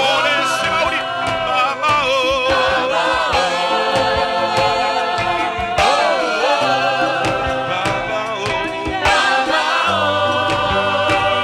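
Gospel worship music: a choir of voices singing over instrumental backing with a steady beat.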